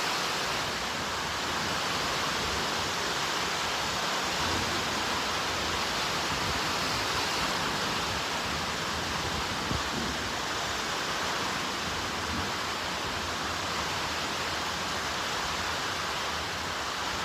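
Steady downpour of heavy rain, an even unbroken hiss.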